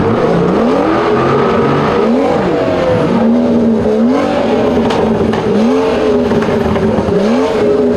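Car engines revving again and again, the pitch climbing and dropping several times, over a steady rushing noise.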